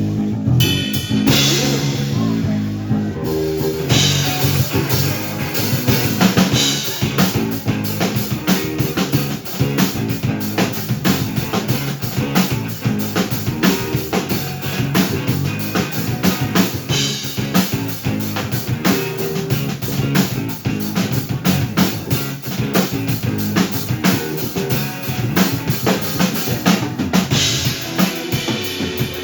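Band playing an original song on guitar, bass guitar and drum kit. The full kit with cymbals fills in about four seconds in, over the guitar and bass.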